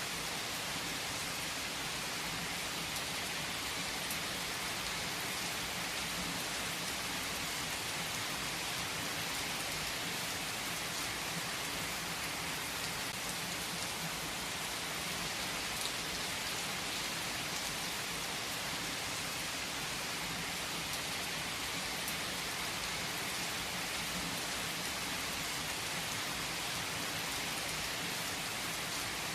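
Steady rain falling on a surface: an even hiss of drops with a few sharper drop ticks here and there and no rise or fall in level.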